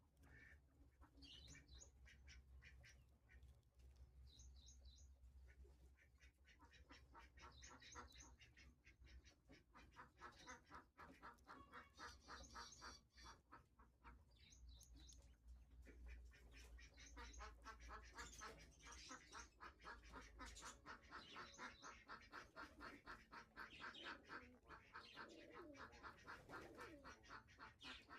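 Faint pigeon sounds: low cooing, mostly in the second half, with short high chirps and quick repeated calls throughout.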